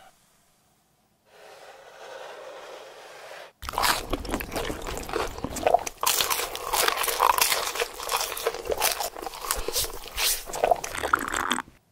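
Close-up crunching and chewing of breaded fried chicken sandwiches, with dense crisp crunches from about three and a half seconds in. Before them comes a short, steady hiss.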